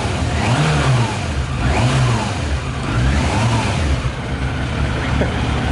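Yamaha YZF600R's carburetted inline-four engine running on whisky (40% alcohol) poured into the tank over a little leftover petrol. The throttle is blipped again and again, the engine note rising and falling about every second and a bit.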